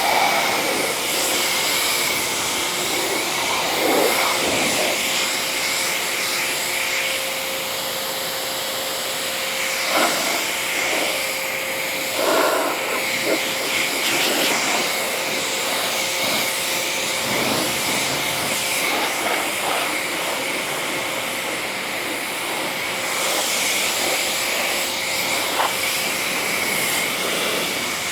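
Pressure washer running steadily, a motor whine under the hiss of the water spray as soap foam is rinsed off a car's paint, with a few brief louder splashes.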